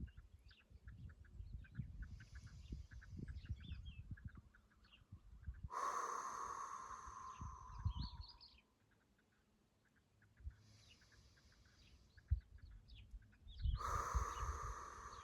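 Two long exhalations through the mouth with a voiced sigh, about eight seconds apart, each sinking slightly in pitch as it fades, as in yogic breathwork. Small birds chirp faintly in between, over a low rumble.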